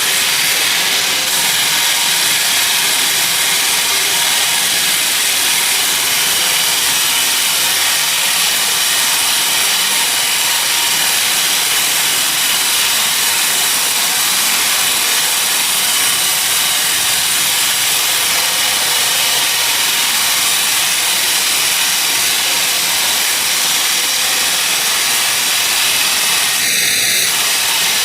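Sawmill saw running steadily through a teak log, a constant loud noise of blade in wood. A brief high-pitched squeal near the end.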